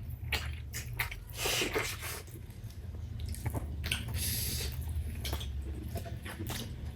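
People eating with spoons: wet chewing and squelching mouth sounds with scattered small clicks of cutlery against plates, over a low steady hum.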